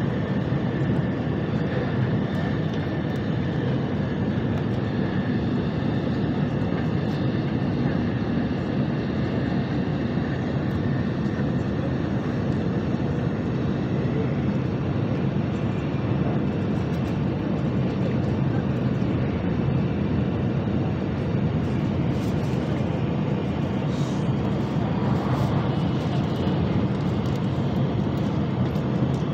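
Steady rushing rumble inside the cabin of a Nozomi Shinkansen bullet train cruising at high speed, around 300 km/h.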